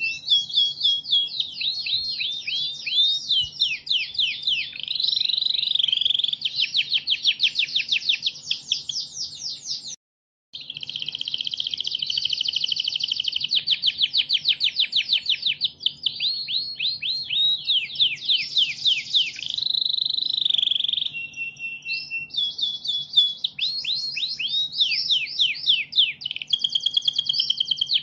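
Domestic canary singing without a pause: long rolling phrases of rapid trills, fast repeated notes and quick downward-sweeping whistles, high-pitched. The song cuts out completely for about half a second around ten seconds in, then resumes.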